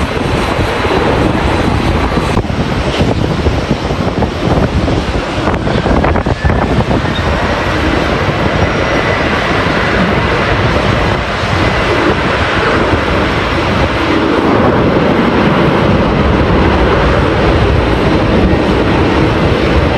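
Airbus A330-300's Rolls-Royce Trent 700 jet engines running loud and steady under heavy wind buffeting the microphone, with a faint whine rising and then holding from about eight seconds in.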